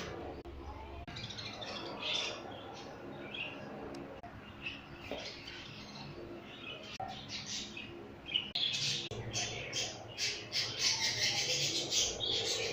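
Baby parrot chirping in short, high calls, which come faster and louder over the last few seconds.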